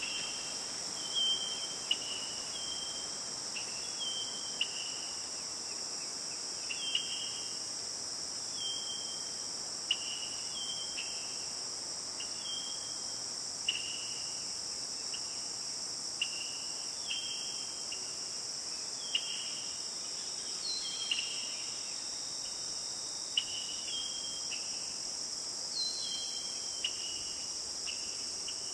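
Forest night-time style ambience: a steady, high-pitched insect chorus of crickets, with short, slightly falling chirps repeating irregularly about once a second.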